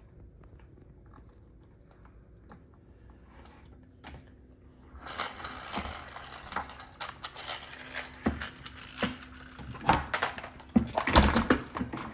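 Plastic toys being handled and knocked together: faint scattered clicks at first, then from about five seconds in a busy clatter of taps and knocks, with the loudest hits near the end.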